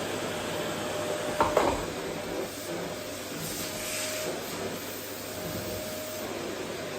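Vacuum cleaner running steadily over a wooden floor, an even rushing hiss with a faint steady whine. Two quick knocks, the loudest sounds, come about a second and a half in.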